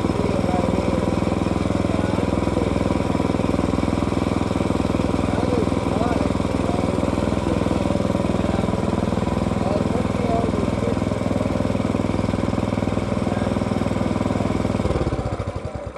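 Small gasoline engine of a log-milling saw running steadily under load during a cut, then shut off and winding down about a second before the end.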